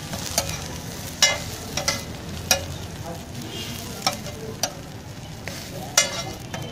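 Burger patties sizzling on a large flat metal griddle, with sharp clinks of a metal spatula and knife striking and scraping the plate about seven times.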